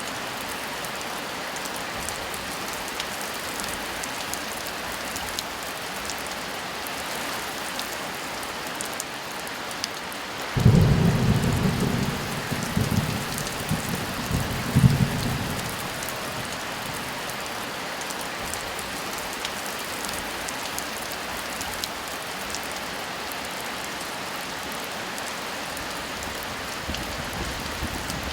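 Steady heavy rain, with a thunderclap that breaks in suddenly about ten seconds in. It rumbles low for about five seconds, with a couple of louder surges, before fading back under the rain.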